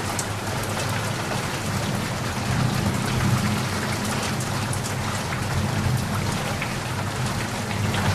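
Heavy rain falling steadily, a dense patter of drops with a low rumble underneath that swells a little mid-way.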